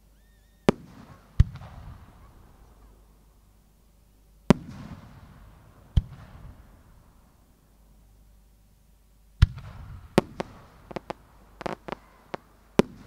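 Aerial fireworks shells bursting: five separate loud bangs over the first ten seconds, each followed by a short rolling echo. Near the end comes a quick run of about ten smaller cracks.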